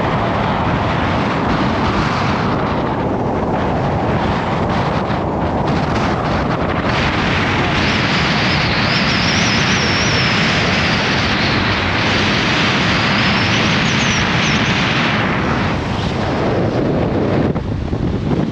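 Gale-force wind buffeting the microphone: loud, continuous rumbling noise, with a gust that brings a harder hiss for several seconds in the middle.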